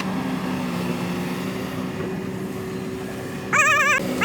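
An engine running steadily with an even low hum. About three and a half seconds in, a loud, high-pitched, wavering animal call cuts across it for about half a second.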